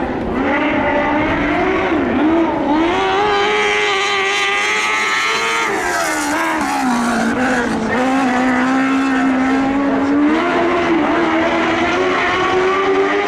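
Lightning sprint car engine at racing speed on a dirt oval. Its pitch climbs for the first few seconds, drops sharply about six seconds in as the driver lifts, then climbs again near the end as he gets back on the throttle.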